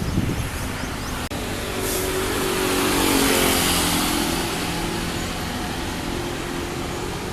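A vehicle passing by, swelling to its loudest about three seconds in and then fading, its engine note dropping slightly in pitch as it goes past.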